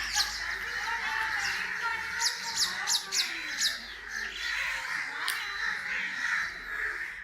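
Crows calling, with several short, sharp, high chirps falling in pitch scattered through, over a steady background hiss.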